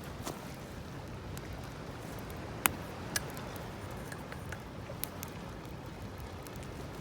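Wood campfire crackling: scattered sharp pops and ticks, the loudest a little over two and a half seconds in, over a steady low rumble.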